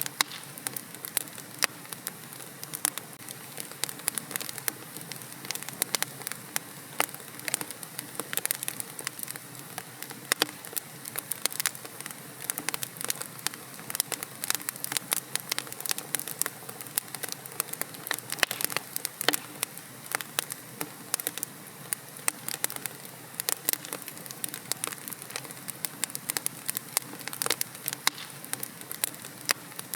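Wood fire burning in a fireplace, crackling steadily with many irregular sharp pops and snaps over a soft hiss.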